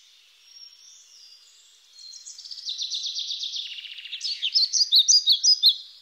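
Songbirds chirping and trilling, faint at first, then a fast trill from about two and a half seconds in and a run of sharp, high chirps near the end.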